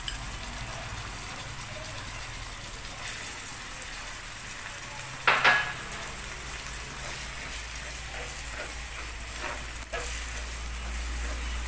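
Snails and sliced lemongrass sizzling steadily as they stir-fry in oil in a frying pan. A sharp clink rings out about halfway through, and a spatula scrapes and stirs through the pan near the end.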